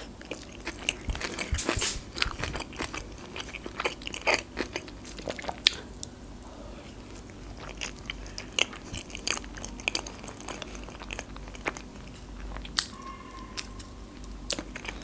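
Close-up chewing of a salmon-and-cream-cheese sushi roll: many small wet clicks of the mouth, thick in the first five seconds or so, then sparser.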